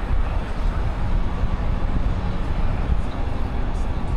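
Steady low rumble of downtown street traffic.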